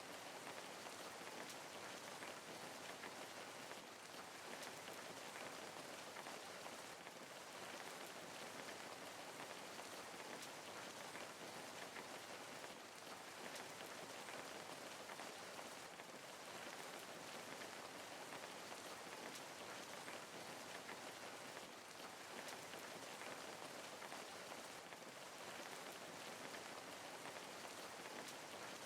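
Steady rain falling on a surface: an even hiss of drops with faint patters, unchanging throughout.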